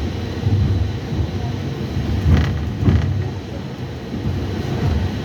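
Tram running, heard from inside the car: a steady low rumble with two sharp knocks about half a second apart a little past the middle, typical of wheels passing over rail joints.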